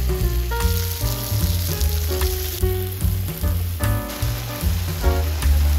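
Potatoes sizzling as they fry in hot oil, under louder background music with a steady bass line and melody.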